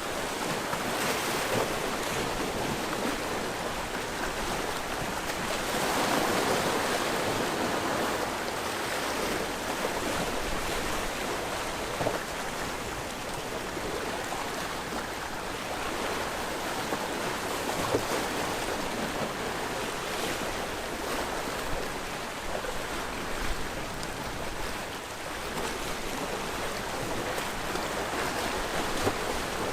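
Sea waves washing steadily onto the shore, one surge swelling louder about six seconds in, with a few short clicks here and there.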